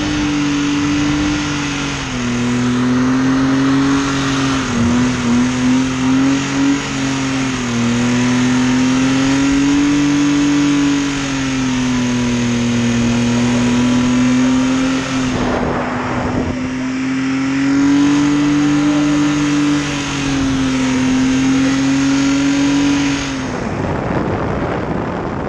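BMW E30 engine held at high revs while the car drifts, its pitch rising and falling as the throttle is worked, with a few quick stutters about five seconds in. A short rushing noise cuts across about fifteen seconds in, and the revs fall away near the end.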